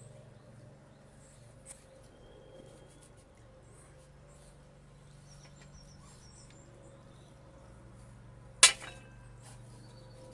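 Faint chirps of garden birds over a steady low hum, with one sharp click about three-quarters of the way through.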